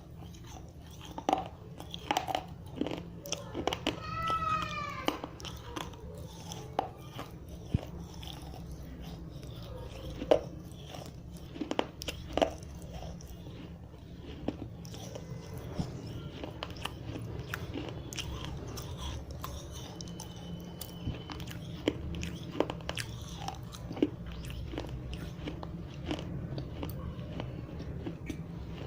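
Dry red clay diyas being bitten and crunched between the teeth: irregular sharp cracks with chewing between, densest in the first half and sparser later.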